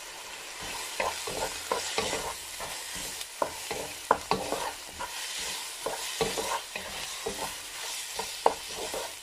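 Chicken mince with onion and spices frying in a kadai with a steady sizzle, stirred with a wooden spatula that scrapes and knocks against the pan at irregular intervals.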